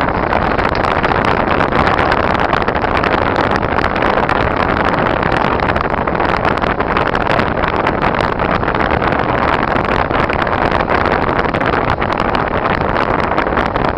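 Car driving on a snowy, icy road: steady, loud road and tyre noise with engine hum and many small clicks throughout.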